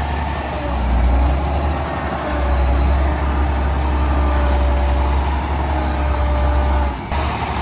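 Heavy earthmoving machinery's diesel engine running steadily with a deep low rumble, a faint thin whine riding over it; the sound dips briefly about seven seconds in.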